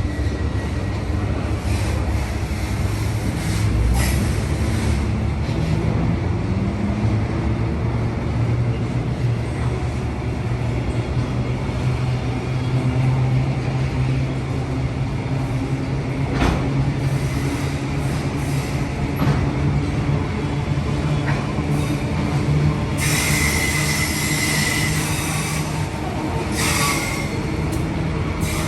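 Queensland Rail electric suburban train running at a station. Its motor hum rises in pitch about five seconds in and then holds steady, and its wheels squeal briefly twice near the end.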